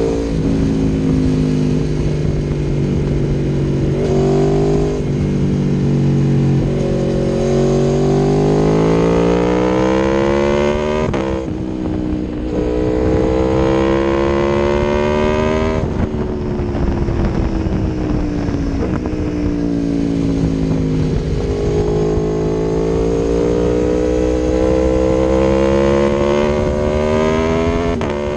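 Aprilia Tuono V4 1100 Factory's V4 engine through an Akrapovic exhaust, ridden under acceleration. The engine note climbs and drops sharply at two gear changes, sinks slowly as the bike slows, then climbs again.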